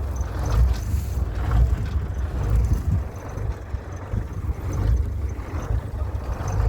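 Tractor engine running, a steady low rumble.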